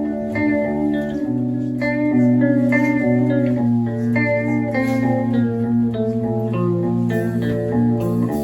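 Live guitar intro to a song, with no singing yet: picked notes changing every half second or so over a held low note that shifts a few times.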